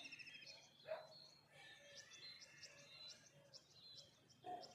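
Faint dawn chorus: several songbirds chirping and trilling over each other. About a second in there is a louder, lower call.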